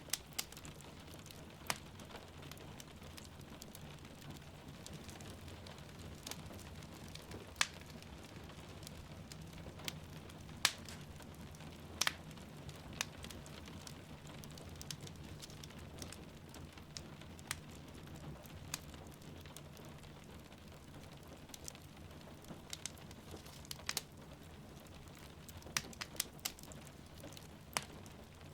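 Wood fire crackling, with sharp pops at irregular intervals, over a steady soft hiss of rain.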